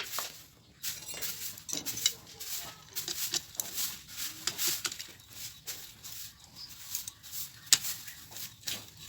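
Irregular metallic clinks, taps and rattles of tools and small engine parts being handled during a motorcycle engine overhaul.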